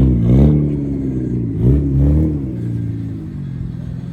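Car engine revving, its pitch dipping and climbing again twice, then falling away to a steadier, lower note.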